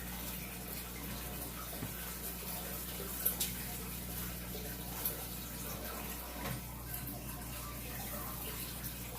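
Aquarium air pump running: a steady low hum under the constant bubbling and splashing of water in the fish tank, which is loud. A few sharp clicks about three and five seconds in.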